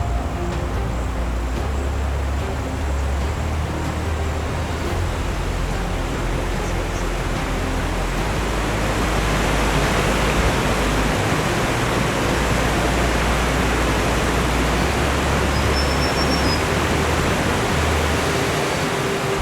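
Steady rushing roar of a high waterfall, with an uneven low rumble of wind on the microphone; the rush grows a little louder about halfway through.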